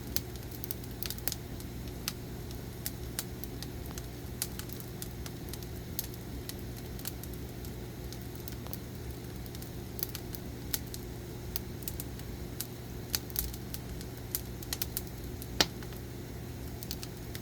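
Burning firewood crackling, with irregular sharp pops, a few of them louder, over a steady low hum.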